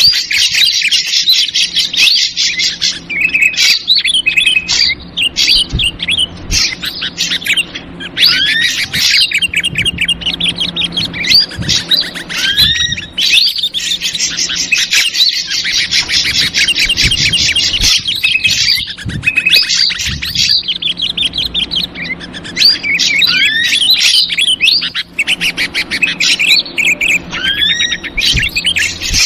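Bird-lure recording of ashy drongo calls, a dense noisy chatter of rapid high trills and short rising whistles with no pauses.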